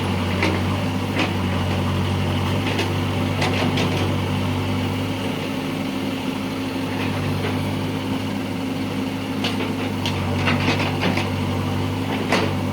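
A heavy diesel engine running steadily at a low, even speed, with short knocks and clanks at irregular intervals.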